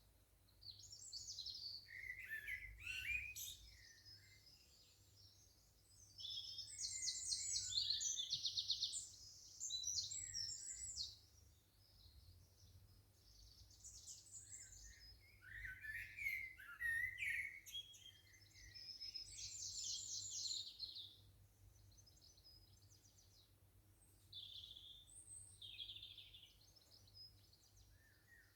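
Garden birds singing: a series of song phrases with quick trills, each lasting a few seconds, with short pauses between them.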